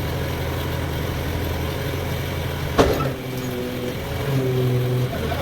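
Sawmill machinery running with a steady low hum. A single sharp knock comes about three seconds in, and the hum shifts in tone for a second or so near the end.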